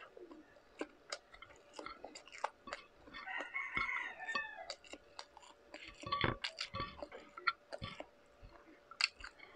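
Close-miked chewing and lip-smacking of a person eating shrimp and rice by hand, with many small wet clicks. A drawn-out pitched call sounds in the background about three to four seconds in.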